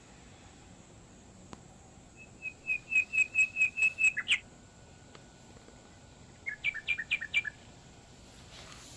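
A bird singing: a run of about a dozen quick chirps that grows louder, starting about two seconds in, then a shorter burst of chirps a few seconds later.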